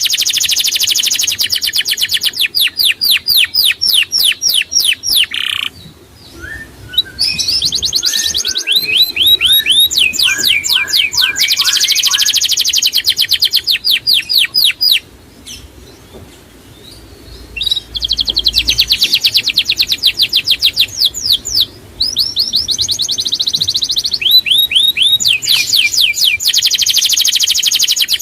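Songbird singing, a master song for cage birds: long, loud phrases of rapid repeated high chirps, about ten a second. There are short pauses near 6 and 16 seconds, and a few lower chirps in the gap around 7 to 9 seconds.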